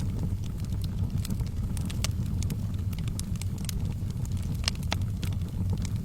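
Wood fire burning in a fireplace: a steady low rumble of flames with irregular sharp crackles and pops, two louder pops close together near the end.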